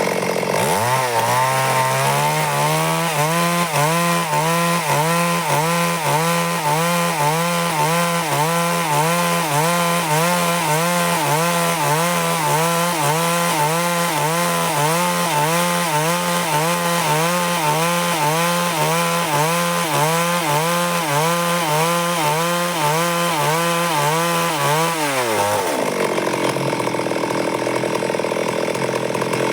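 Stihl MS382 two-stroke chainsaw ripping lengthwise through wood to cut boards. The engine revs up about a second in and holds high under load with a regular wavering in pitch. Near the end the revs drop as the saw comes out of the cut, then pick up again.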